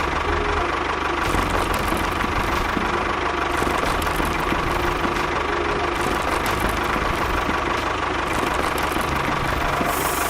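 A small motor running steadily with a constant whine, like that of a small motor-driven model machine.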